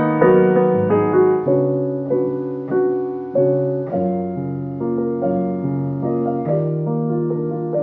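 Soft piano music: gentle chords and melody notes struck about once a second, each ringing and fading.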